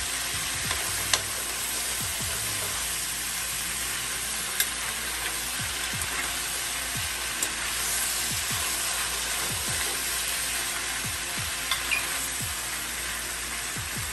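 Potatoes, sausage, onions and bell peppers sizzling steadily in hot oil in an enamelled skillet while a metal spoon stirs them, with a few light clicks of the spoon against the pan.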